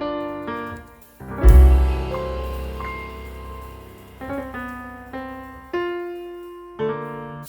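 Soft, slow piano music: single notes struck and left to ring, with a deep low chord coming in about a second and a half in.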